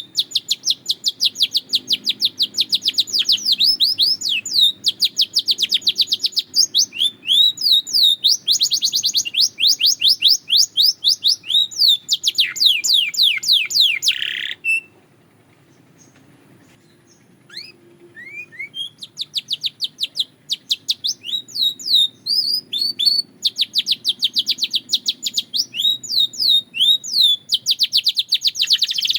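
Belgian canary singing: long runs of rapid, trilled repeated notes and quick sweeps. The song breaks off for about three seconds midway, then starts again.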